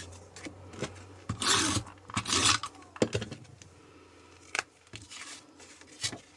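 Card and paper being handled on a work surface: two short scraping strokes about a second and a half and two and a half seconds in, with light taps and clicks around them.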